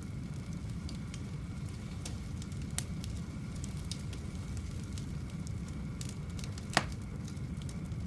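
Wood fire burning in a fireplace: a steady low rumble of flames with scattered small crackles and one louder pop late on.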